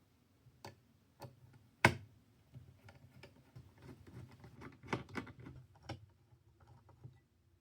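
Light clicks and taps of PC parts being handled and fitted while a motherboard is prepared. The sharpest knock comes about two seconds in, followed by a flurry of smaller clicks around five seconds.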